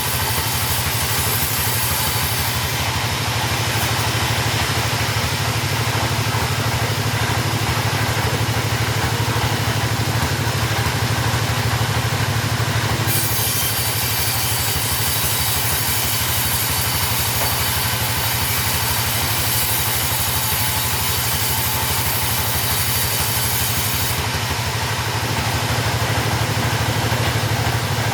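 Chainsaw engine running steadily, with a hiss over it that grows louder and softer a few times.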